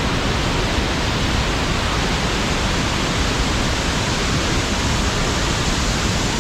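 Steady rush of a large waterfall, an even, unbroken sound of falling water.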